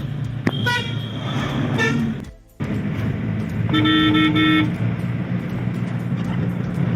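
Car horn honking three short times in quick succession, about four seconds in, over the steady hum of a car on the road.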